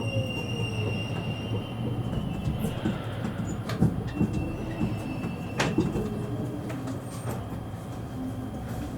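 Running noise inside a JR East E653 series electric train motor car as it slows into its terminal: a motor whine falls in pitch and fades about a second in, over a steady rumble, with a few sharp clacks of wheels over rail joints or points and some wheel squeal.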